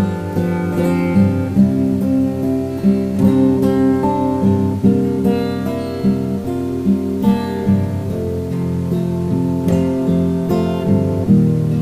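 Solo acoustic guitar playing an instrumental passage of plucked and strummed chords.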